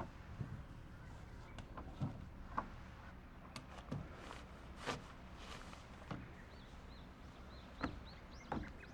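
Scattered light knocks, clicks and footsteps outdoors, with a few faint bird chirps near the end.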